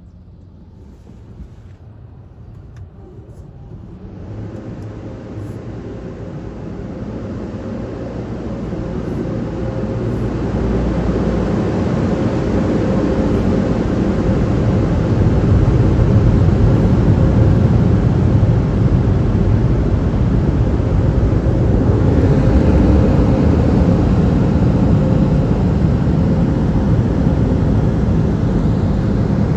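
PDQ Tandem SurfLine in-bay automatic car wash's dryer blowers spinning up, building over about ten seconds to a loud, steady rush of air with a faint whine, typical of the drying stage at the end of the wash cycle.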